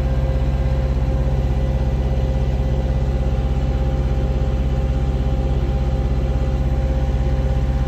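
Farm tractor engine running steadily with an even, fast pulsing as it pulls a wing harrow through a rice paddy.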